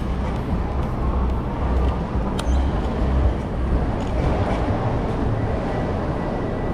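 Wind rushing over the microphone of a moving bicycle, mixed with road traffic noise; a steady, low rumble with no breaks.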